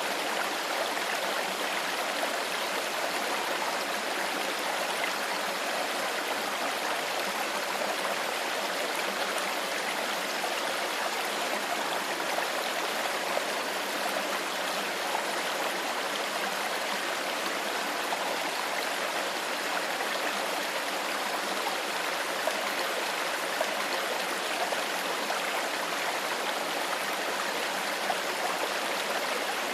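Shallow stream flowing steadily, an even rush of water with fine trickling and gurgling.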